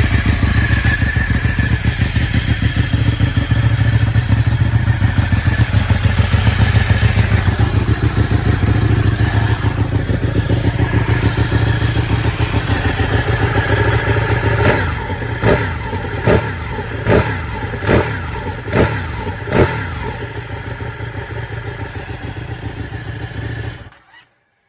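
Ducati 1199 S Panigale's Superquadro L-twin engine running on a stand, then blipped seven times in quick succession, roughly one rev every 0.8 s, before settling back and cutting off suddenly near the end. The owner says the low-mileage engine is in top condition with no abnormal noises.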